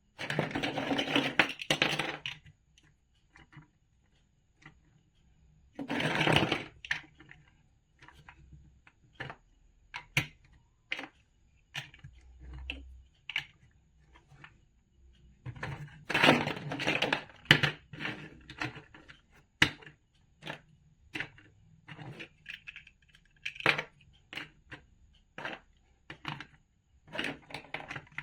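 Plastic building blocks clicking and clattering as they are handled and pressed together, with a scatter of separate sharp clicks and longer spells of rattling near the start, around six seconds in and around sixteen seconds in.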